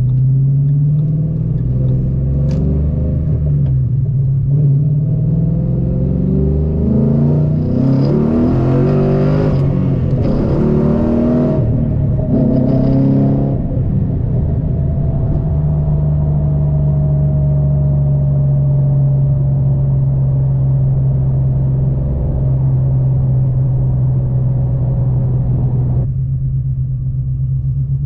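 Ford Coyote 5.0 V8 of a 2013 Mustang GT through ceramic-coated shorty headers, an X-pipe, straight-through mufflers and a cat delete, giving a loud exhaust. The engine note climbs and drops again and again, revving hardest a little under halfway, then settles into a steady drone for the rest.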